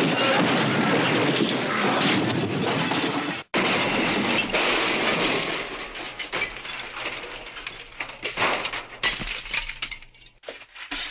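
Two cartoon crash sound effects in a row. The first is a dense, continuous crash that cuts off suddenly about three and a half seconds in. The second is a smash of breaking and shattering pieces, many sharp clatters that thin out and fade.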